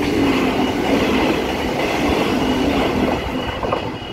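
Electric suburban train passing close at speed without stopping: a loud rush of wheels on rail that eases slightly near the end. A level crossing's warning bells ring steadily through it.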